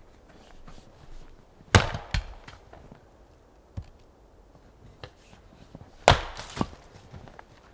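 Wood being chopped: two hard strikes about four seconds apart, each followed by a lighter knock or two.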